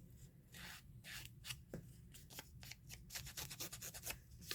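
Faint rustling and light scratching of paper being handled and worked by hand, in many short quick strokes that come thicker about three seconds in.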